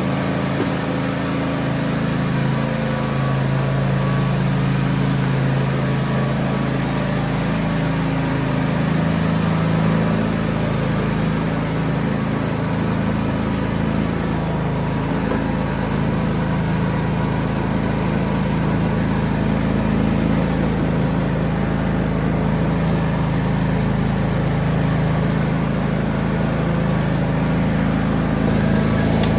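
John Deere X304 riding lawn tractor's engine running steadily while mowing, at an even speed with no revving or stops.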